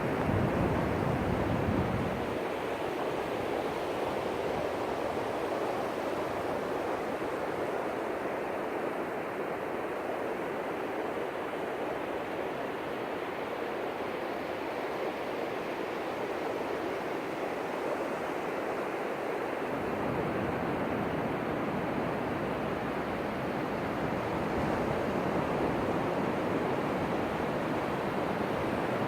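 Ocean surf washing on a beach: a steady rushing of breaking waves, with a deeper rumble in the first couple of seconds and again from about two-thirds of the way through.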